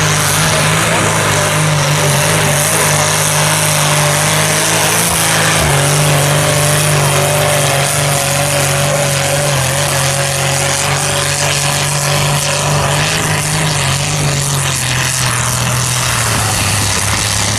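Antique tractor engine running steadily at a constant speed, with a faint wavering whine above its note.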